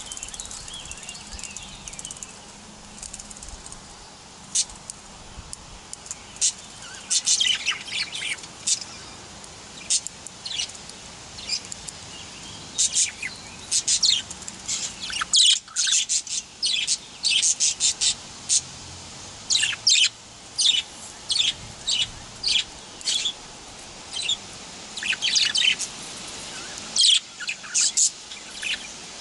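Male budgerigar chirping and chattering in quick runs of short, high notes, starting and stopping in clusters.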